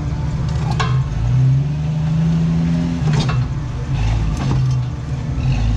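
Jeep Cherokee XJ engine pulling in low gear as it crawls over rocks, its pitch rising and falling with the throttle. Three sharp knocks come through about a second in, just after three seconds and just after four seconds.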